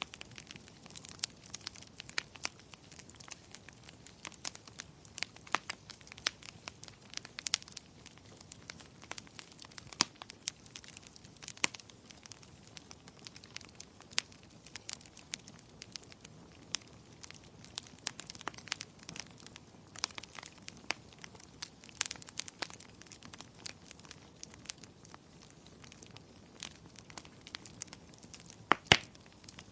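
Wood fire in a fireplace burning, with irregular sharp crackles and pops over a faint steady hiss; a louder double pop comes near the end.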